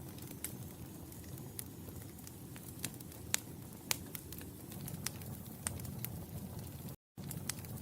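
Wood fire crackling: irregular sharp pops and snaps over a steady low rumble of burning. The sound drops out completely for a split second near the end.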